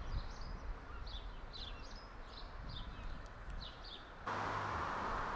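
A small bird chirping a string of short high notes over a faint low town rumble. About four seconds in, a louder steady traffic noise starts abruptly.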